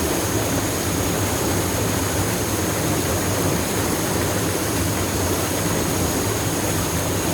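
Waterfall pouring into a deep pool: a steady, even rush of falling water.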